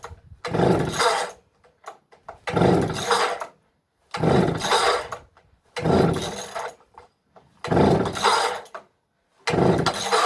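McCulloch chainsaw's recoil starter cord pulled six times, about one pull every second and a half to two seconds, each a rasping whirr of about a second. The cold engine, cranked without the choke, does not fire.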